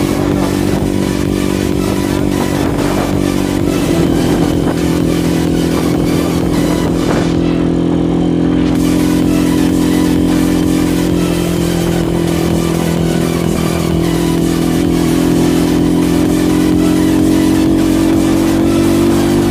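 Supermoto motorcycle engine running steadily while riding along a road, its pitch climbing gently near the end.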